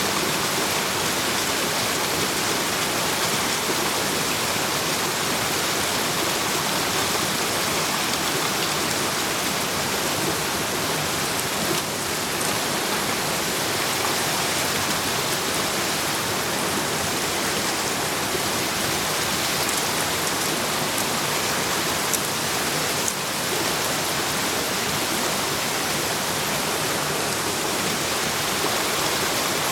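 Meat and bamboo shoots grilling over a campfire: a steady sizzling hiss with a few faint sharp pops.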